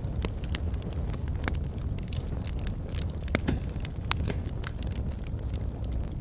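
Wood fire burning in a fireplace: a steady low roar of flames with irregular sharp crackles and pops from the burning logs, several a second.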